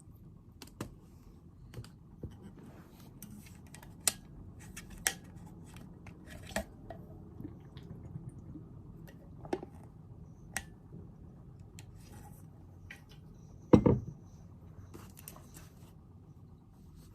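Objects handled on a study desk: scattered clicks and taps over a low steady hum, with one louder knock near the end.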